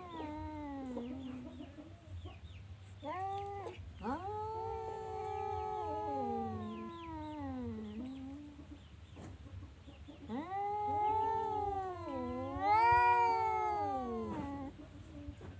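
Domestic cat meowing in long, drawn-out yowls, about four calls that slide up and down in pitch. The last and loudest call rises and then falls away.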